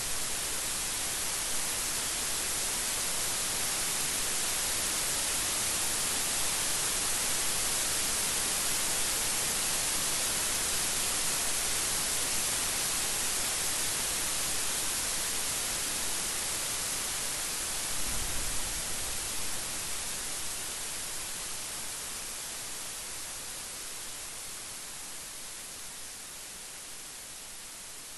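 Steady rain falling in a dense, even hiss. A short low rumble comes about two-thirds of the way through, and the rain eases gradually near the end.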